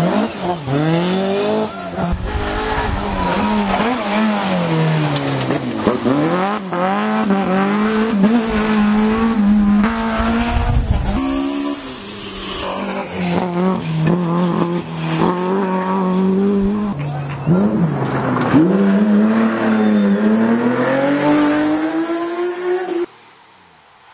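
Historic rally cars at full throttle, engines revving high and dropping back again and again through gear changes. The sound comes as a run of short clips of different cars, with abrupt cuts between them, and turns much quieter near the end.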